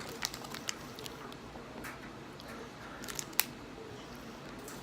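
Plastic wrapper of a cereal bar being handled and opened: scattered light clicks and crinkles, with a sharper crackle about three and a half seconds in.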